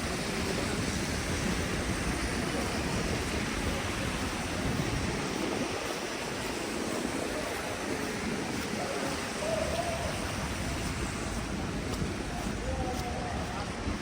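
Steady rushing city street ambience on a snowy night, with faint distant voices now and then.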